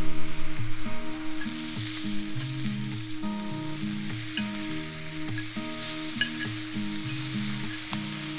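Food sizzling and frying in a skillet, a steady hiss with small pops. Background music with a steady melody and bass plays under it.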